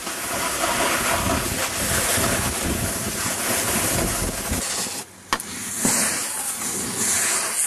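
Rushing wind on the microphone with the hiss of a snowboard sliding over snow. It cuts out abruptly about four and a half seconds in, a sharp click follows, and the rushing starts again.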